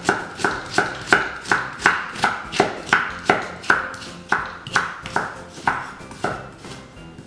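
Large kitchen knife chopping carrots into thin matchstick strips on a wooden cutting board: steady, evenly spaced strokes about three a second, growing fainter near the end.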